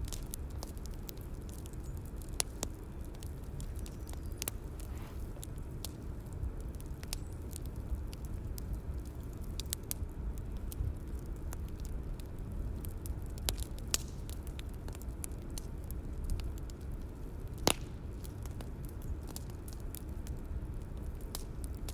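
Bonfire crackling: a steady low rush of burning with frequent sharp pops and snaps scattered through it. The loudest pop comes about three-quarters of the way through.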